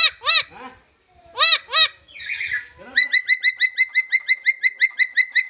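Pet lory (nuri parrot) calling: two pairs of loud rise-and-fall whistled calls, then from about halfway through a rapid, even run of short chirps, about six a second.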